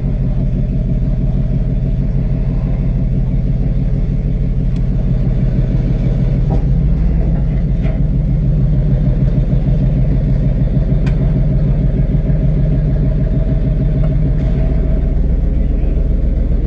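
Tow truck's engine running steadily and loudly, its muffler in need of repair, getting a little louder about six or seven seconds in.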